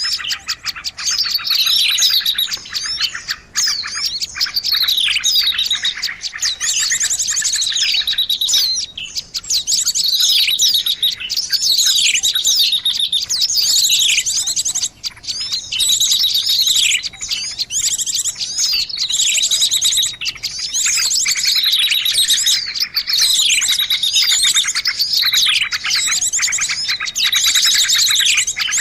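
Many small birds chirping and calling at once in a dense, noisy chorus of fast trills and downward-sweeping whistles: a bird-lure (pikat) recording of agitated calls meant to draw in other birds.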